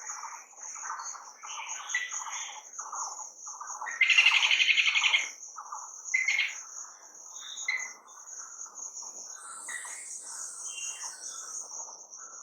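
Wild birds chirping and calling in a series of short notes. About four seconds in, one bird gives a loud, rapid trill lasting just over a second, followed by scattered single chirps. A steady high-pitched drone runs underneath.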